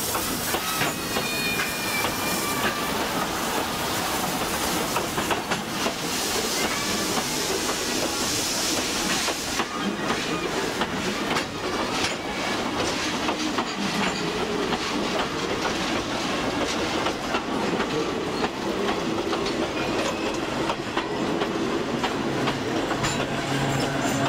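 Passenger coaches of a train rolling slowly past at close range, their wheels clicking over the rail joints. A hiss stops about ten seconds in, and a low steady hum begins near the end.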